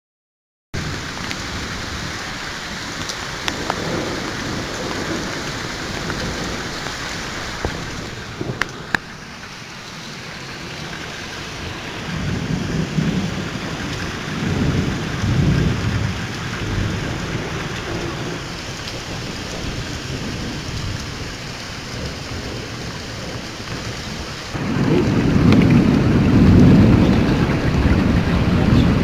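Steady heavy rain with rolling thunder from a thunderstorm. The sound cuts in suddenly just after the start, a couple of rumbles swell in the middle, and a longer, louder roll of thunder comes near the end. A few sharp clicks come about a third of the way through.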